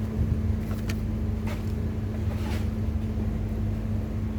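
Steady low mechanical hum, unchanged throughout, with a few faint light clicks on top.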